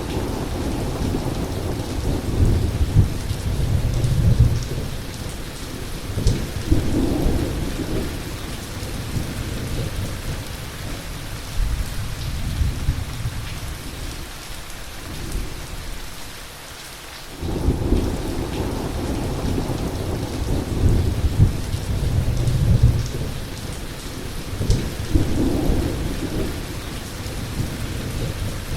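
Heavy rain falling steadily, with thunder rumbling again and again underneath. The rumbling dies away a little past the middle, then comes back suddenly.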